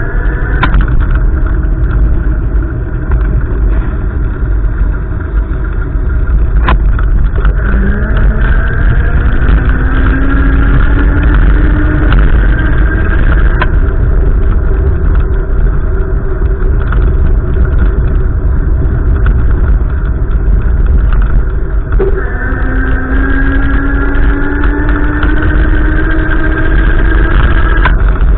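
Car driving, with a heavy steady rumble of road and wind noise; twice the engine pitch rises slowly over several seconds as the car accelerates.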